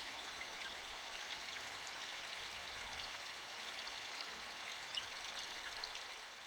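Steady rain falling, an even hiss with scattered single drops ticking through it. It grows slightly quieter near the end.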